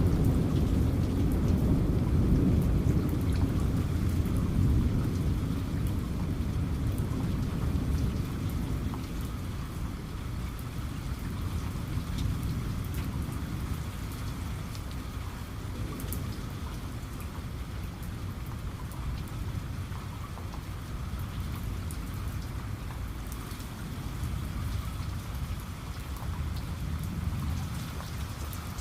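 Steady rain with scattered raindrop ticks, under a low rumble of thunder that fades away over the first ten seconds or so.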